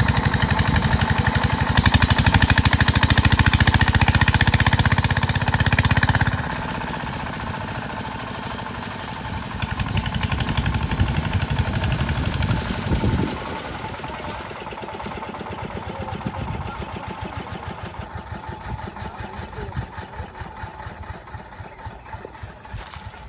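Diesel engine of an 8 hp water pump set running with a rapid, even knocking beat. It is loudest for about the first six seconds, drops suddenly, comes up again around ten seconds in, then fades gradually.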